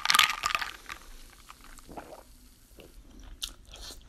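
Close-miked eating sounds: biting into and chewing sushi and raw salmon, with scattered soft wet mouth clicks and smacks. A brief, louder burst of noise comes at the very start.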